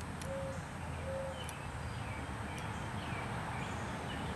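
Quiet outdoor ambience with a steady hiss: a bird gives two short, low, hoot-like notes in the first second or so, then several short, high, falling chirps follow later on.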